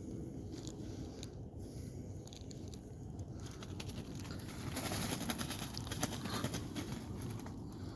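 Doves among a steady low outdoor rumble, with a louder stretch of crackling, rustling noise from about five seconds in until just before the end.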